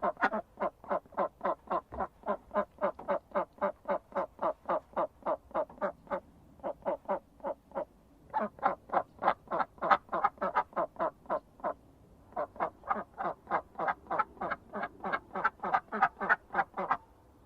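Duck quacking in a fast, even series of about four quacks a second, pausing briefly a couple of times.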